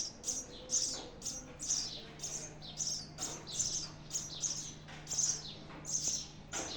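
Sparrows chirping at a nest with chicks: a steady run of short, high chirps, about three a second, over a faint steady low hum.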